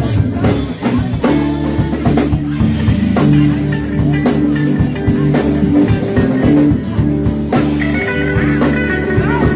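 Live rock band playing an instrumental jam with electric guitar, bass and drum kit; a lead guitar line with bending notes comes in about eight seconds in.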